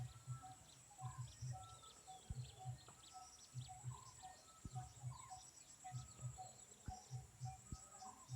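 Several small birds chirping and calling, faint, over a steady high-pitched hiss, with soft low thumps recurring through it.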